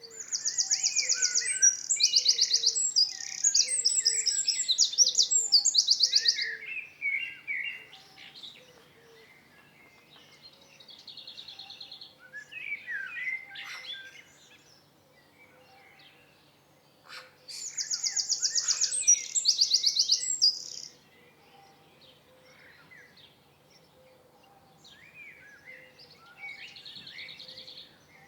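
Several songbirds singing and calling, with two long bursts of very fast, high trilled song, one at the start and another a little past halfway, between shorter trills and scattered chirps.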